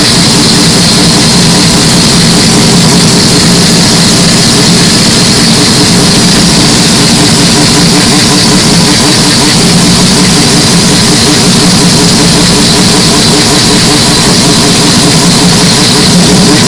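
Mazda 767B's four-rotor rotary engine running steadily at an unchanging pitch, with no revs or gear changes. Very loud and boosted, the level pinned near the top.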